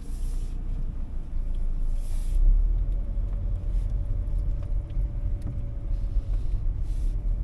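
Car driving slowly, heard from inside the cabin: a steady low rumble of engine and tyres, with a brief rush of wind noise at the start and again about two seconds in.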